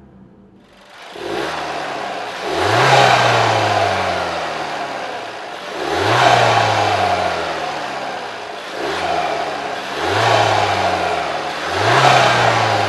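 Audi 1.4 TFSI four-cylinder petrol engine being revved repeatedly, about five times. Each rev rises quickly and falls back slowly.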